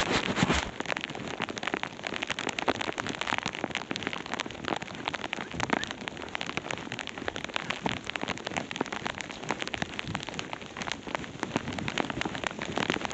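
Heavy rain pattering close on a body-worn camera and rain jacket, a dense, steady spatter of drops, with a brief louder rustle at the start.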